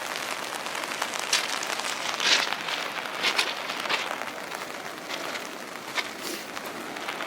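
Footsteps crunching on loose railway ballast rock, a handful of uneven steps, over a steady hiss.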